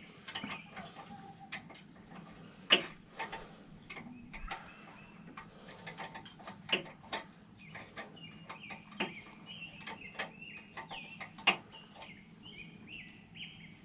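Irregular metallic clicks and clinks of a wrench working a motorcycle's rear chain-adjuster nut as it is loosened, with two sharper clanks, one a few seconds in and one near the end. Birds chirp in the background.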